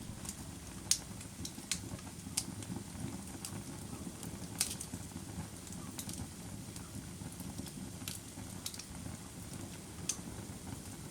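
Burning firewood: a steady low roar of flames with scattered sharp crackles and pops every second or so.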